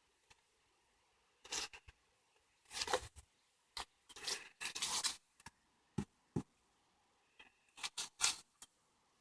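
Footsteps crunching and scraping on a woodland path: a run of short, uneven crunches with two sharp snaps about six seconds in.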